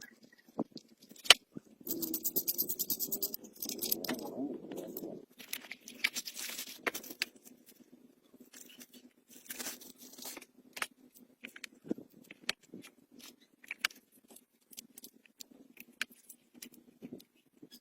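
Irregular clicks, knocks and scraping of small metal objects being handled, with a louder rasping stretch from about two to five seconds in.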